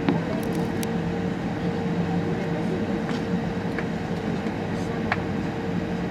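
Steady cabin hum inside an Airbus A380's lower deck at the end of the flight, with a low, even tone running through it. A few sharp clicks sound through it, the loudest right at the start and about five seconds in.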